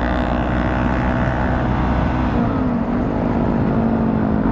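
Motorcycle engine running at steady revs while under way, with low wind rumble on the microphone. About two and a half seconds in, the engine note dips briefly and then settles again.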